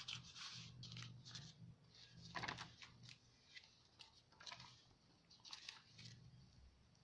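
Faint rustling and soft handling of a handmade journal's paper pages, with a slightly louder rustle about two and a half seconds in.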